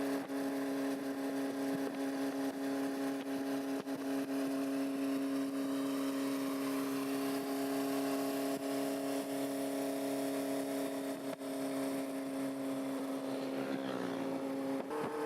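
Honda CB400Four's inline-four engine, fitted with a replacement muffler, running at steady revs. Near the end its pitch slides down, then jumps back up.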